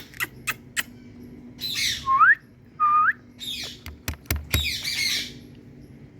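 Pet parrot squawking: three harsh calls, two short rising whistles, and several sharp clicks in between.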